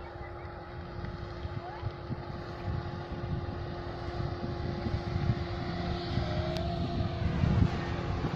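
Motorboat engine running with a steady hum, under a low, gusty rumble of wind on the microphone, growing louder toward the end.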